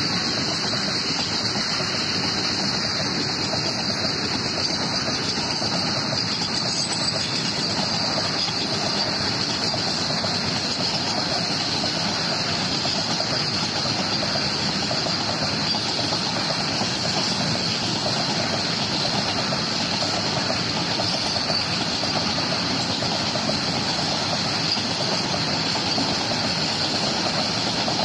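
Loaded BCN covered goods wagons of a freight train rolling past at speed: a steady roar of steel wheels on the rails with a continuous rattling clatter and an even high hiss.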